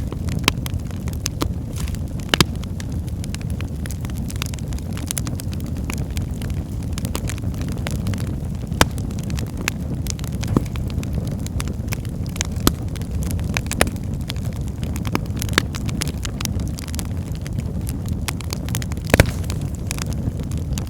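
Log fire burning in a fireplace: a steady low rumble of flames with scattered sharp crackles and pops from the burning wood. The loudest pops come about two seconds in and near the end.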